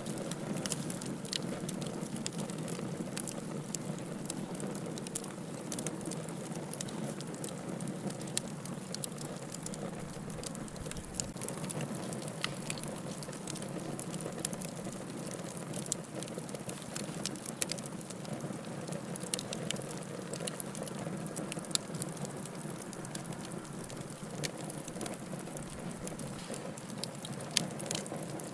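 Wood fire burning steadily, with a low rushing bed and irregular sharp crackles and pops of firewood, a few louder ones scattered through.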